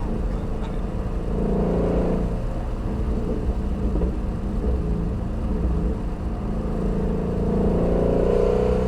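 Shelby GT350R's 5.2-litre flat-plane-crank V8 running under way, with a steady low drone. The engine pitch rises as it pulls harder about a second in and again near the end.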